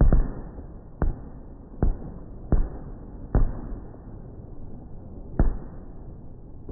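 Fireworks shells bursting overhead: six sharp bangs at uneven intervals, the last about five and a half seconds in, each followed by a short rumbling tail.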